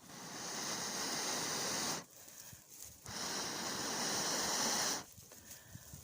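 A person blowing long, steady breaths onto a smouldering tinder nest of dry straw and maguey fibre to bring it to flame: two blows of about two seconds each, a second apart.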